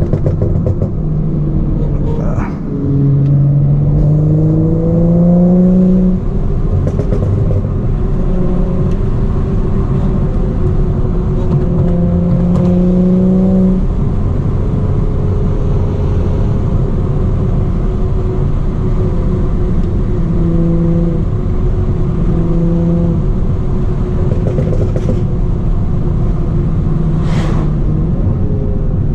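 BMW 335i's turbocharged N55 inline-six with a straight-piped exhaust, driven hard on a winding road. The engine note climbs under acceleration and falls at each shift, with stretches of steady cruising between pulls.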